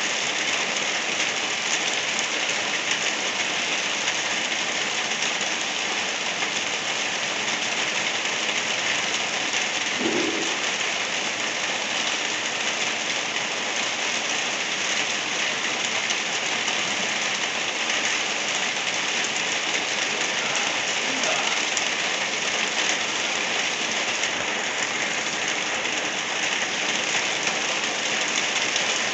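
Light rain falling steadily, an even hiss that does not let up.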